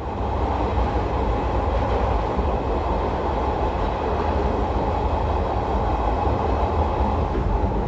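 JNR 113 series electric train running, a loud steady rumble with steady tones over it, which starts abruptly and then holds level.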